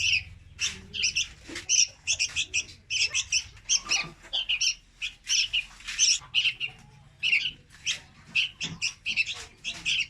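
Young red-whiskered bulbul chicks calling: short, high chirps repeated several times a second, in clusters with brief pauses.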